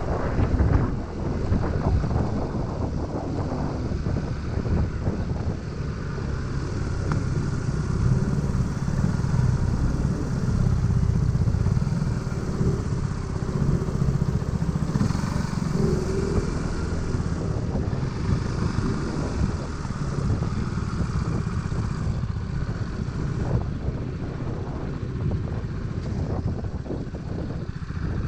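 Motor scooter engine running steadily while riding, with road and wind noise.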